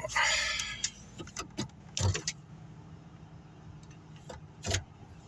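Car engine idling with a steady low hum, while scattered light metallic clinks and a few knocks come and go over it, the loudest about two seconds in.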